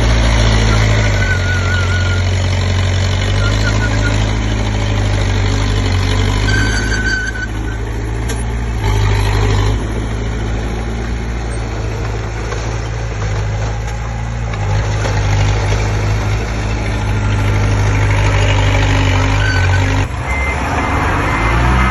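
Komatsu D20P bulldozer's diesel engine running steadily as it works, with a few brief high squeaks heard over it.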